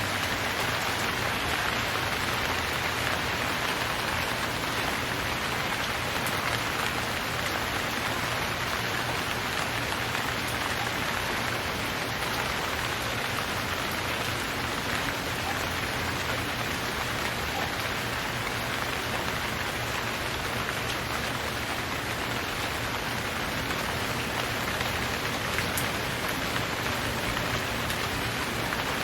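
Steady, even rainfall pattering on surfaces.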